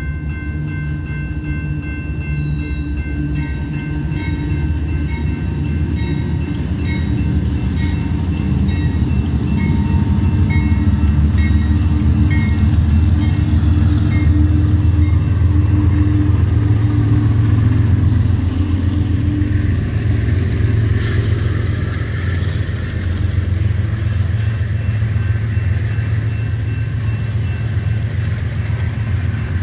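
Freight train passing a grade crossing: the crossing bell rings steadily at first, then two CSX diesel locomotives go by, loudest about a third to halfway through. The rolling noise of covered hopper cars on the rails follows.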